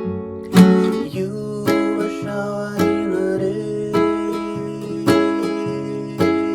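Acoustic guitar strummed in a steady rhythm, a strong strum about once a second with chords ringing between.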